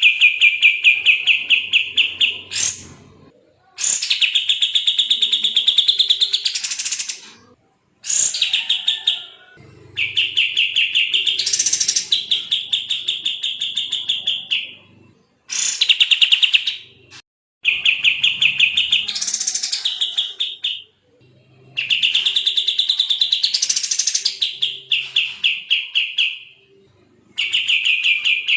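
Kapas tembak songbird singing fast and dense: about eight bursts of rapid, sharp repeated notes, each burst a few seconds long, with short pauses between them.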